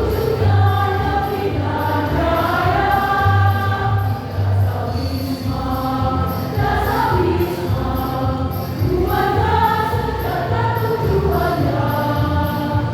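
A choir singing a song with musical accompaniment, over a steady bass and a light percussive beat.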